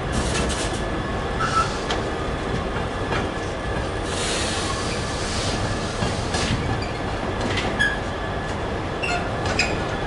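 Train rolling through, a continuous low rumble with wheels clicking over rail joints and a few brief high wheel squeals.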